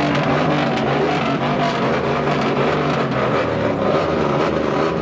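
Truck engine running loudly at a steady pitch.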